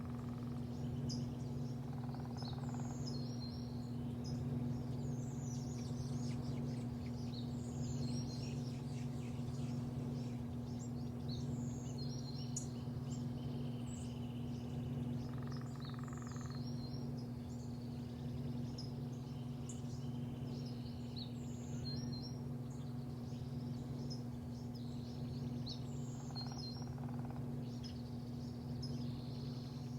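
Small birds chirping in short repeated calls every second or two over a steady low mechanical hum.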